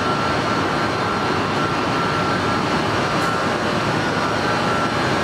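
Steady whirring drone of a standing double-deck electric commuter train's ventilation and auxiliary equipment, with a thin steady high whine over it.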